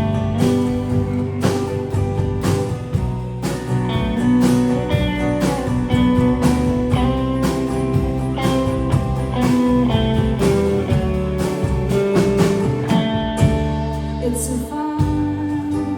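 A band playing a bluesy song: a guitar carrying held melodic notes over bass and drums keeping a steady beat.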